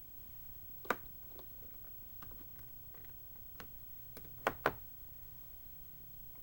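Quiet room hiss with a few short clicks: one about a second in and a close pair about four and a half seconds in.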